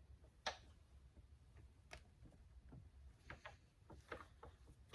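Faint, scattered clicks and handling knocks as the camera is clamped onto a selfie-stick mount, a few light ticks spread over a few seconds against near silence.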